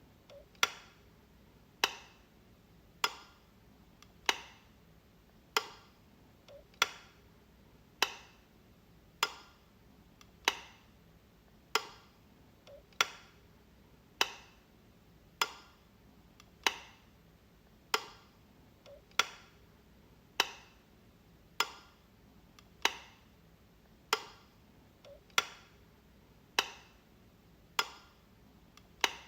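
Light switch clicked over and over, one sharp click about every second and a quarter at an even pace, with a fainter click just before some of them.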